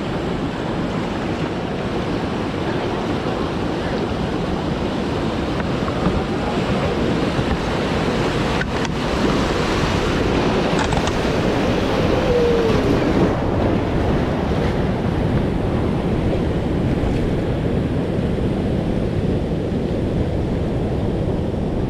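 Rushing river water at a weir, with wind buffeting the microphone; the rushing grows louder about nine seconds in.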